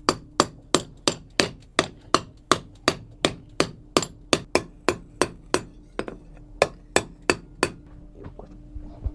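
A blacksmith's hammer striking steel in a steady rhythm, about three blows a second, that stops near the end.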